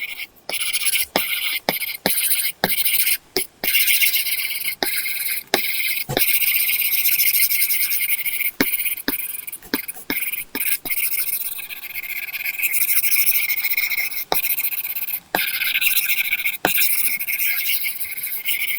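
Apple Pencil tip scratching across a paper-texture film on an iPad screen in drawing strokes, a high papery scratching. Strokes of varying length are broken by short pauses and sharp taps of the pencil tip on the glass.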